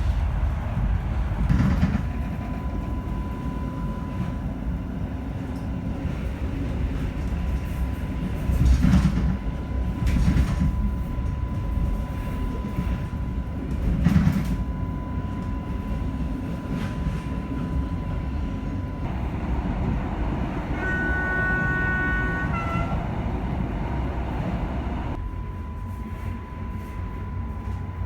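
EN57ALd electric multiple unit running on the line: a steady rumble with a thin steady whine, and a few heavy thumps over rail joints. About two-thirds of the way in, a train horn sounds for about two seconds.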